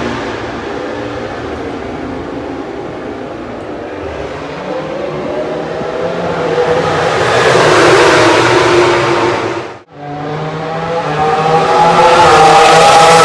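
MotoGP racing motorcycles running at speed on the circuit: one engine note swells to a loud peak about eight seconds in, cuts off suddenly, then another loud, high engine note comes in and holds near the end.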